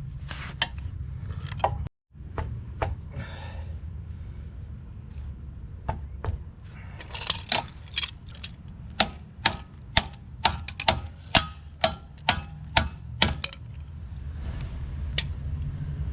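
Hammer striking steel coupler parts: a run of about a dozen sharp metallic strikes at roughly two a second, with one more a little later, over a low steady rumble.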